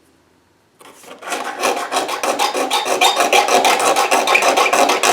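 A hand file scraping back and forth to clean up holes cut in a wooden box. The strokes start about a second in and run on as rapid, even strokes.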